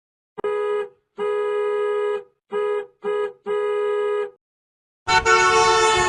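Comedy sound effect: an organ-like electronic keyboard tone sounded five times at the same pitch, in a long, long, short, short, long pattern. About five seconds in, a louder, noisier sound with many overtones starts: the next effect.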